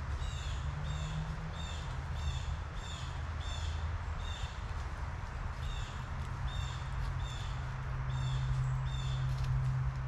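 A bird calling over and over, a short harsh high call repeated about every two-thirds of a second, over a steady low hum.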